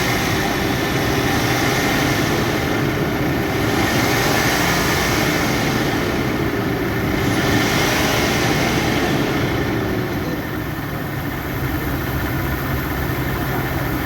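Range Rover Sport HSE's 4.4-litre V8 engine idling steadily, settling a little lower and quieter about ten seconds in.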